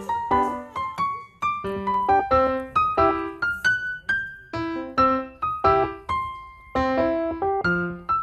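Background piano music: a light melody of single struck notes and chords, several notes a second, each dying away.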